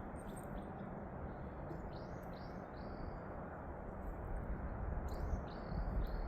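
A songbird calling: two short phrases of three quick falling chirps, about three seconds apart, over a steady rushing background noise.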